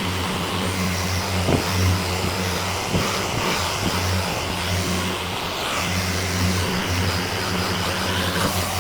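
Power orbital sander running steadily on car paint with a fine-grit disc, cutting down orange peel in the finish. Its hum swells and dips as it works the panel, with a few light knocks.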